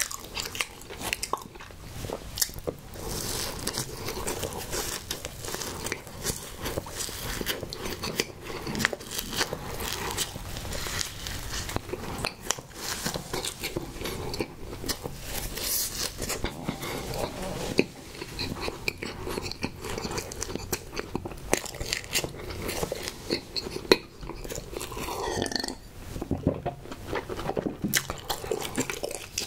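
Close-miked chewing and wet mouth sounds of a person eating a strawberry Sno Ball cake, a chocolate snack cake coated in marshmallow and coconut, with many small sticky clicks.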